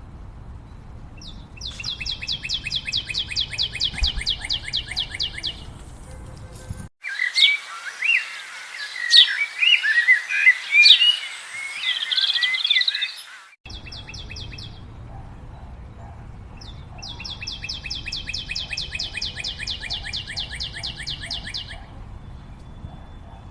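Forest birds calling: a long, fast trill of evenly repeated high notes, slightly falling, given twice. Between the trills comes a louder stretch of mixed chirps and whistles from several birds.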